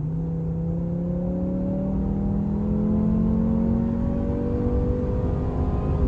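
MINI Clubman S's four-cylinder B48 engine at full throttle in green mode, heard in the cabin through the active sound design's synthetic engine sound, which makes it sound like a five-cylinder. The note rises steadily as the car accelerates.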